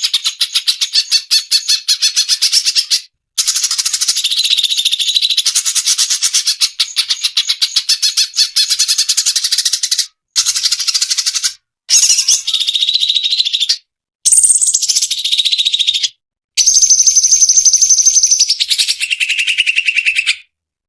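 Cucak cungkok song from a masteran tutor recording: fast chattering runs of rapid notes, some phrases ending in held whistles, broken by short pauses. It stops about twenty seconds in.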